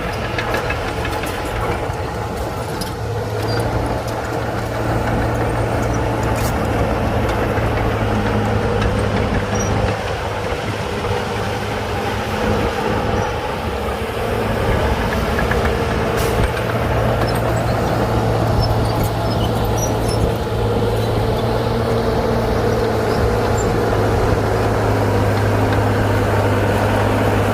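Bulldozer's diesel engine running steadily under load while it pushes soil, with a couple of short sharp clanks.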